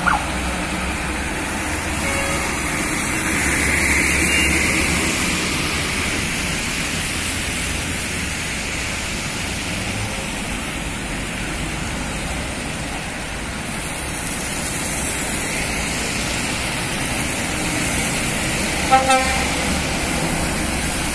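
Heavy truck engine and road traffic rumbling steadily, with a vehicle horn tooting twice in quick succession near the end.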